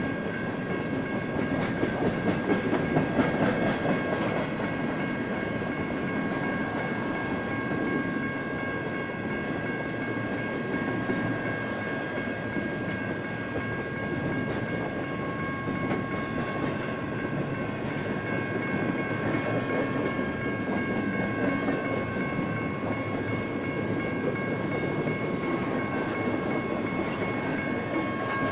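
BNSF intermodal freight cars rolling slowly past a grade crossing, their wheels rumbling and clacking over the rail joints. Over this the crossing's General Signals electronic bells ring continuously, giving several steady high tones.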